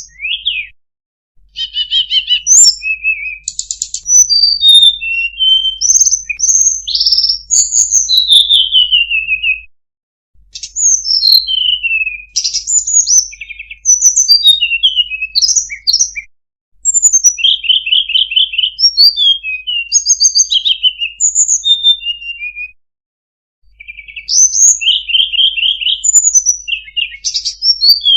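Tledekan gunung songbird singing: long, fast, varied phrases of high whistles, slurred notes and rapid trills, broken by brief pauses.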